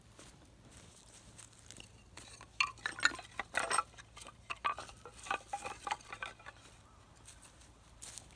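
Thin metal pieces clinking and rattling as they are handled: a run of light clinks and clicks for about four seconds starting some two seconds in, then one more clink near the end.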